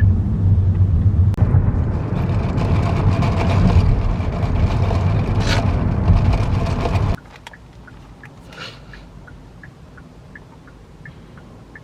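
Steady low rumble of road and engine noise heard inside a moving car. About seven seconds in it cuts off abruptly to a much quieter background with faint regular ticking, about two ticks a second.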